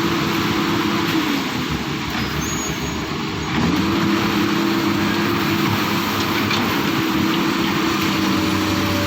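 Excavator's diesel engine running steadily. Its revs sag about a second in and pick back up again after about three and a half seconds.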